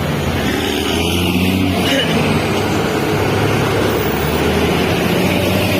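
Mitsubishi Fuso truck's diesel engine running steadily, a constant low drone.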